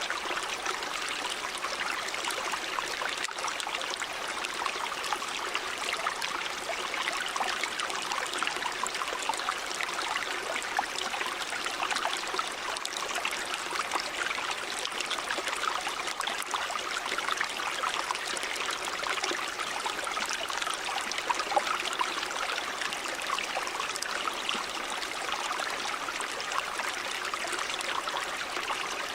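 River water running over stones, a steady rushing with constant small splashes and trickles.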